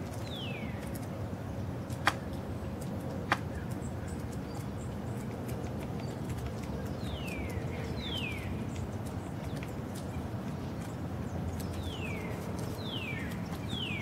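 A bird calling: short whistled notes that slide downward, coming in twos and threes several seconds apart. Two sharp clicks about two and three seconds in.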